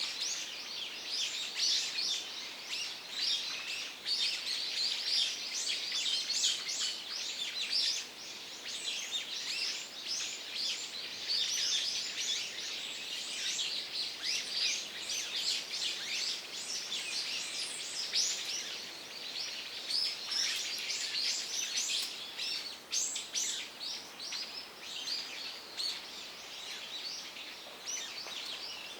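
Forest birds chirping continuously, many short high calls overlapping in a dense chorus over a soft background hiss.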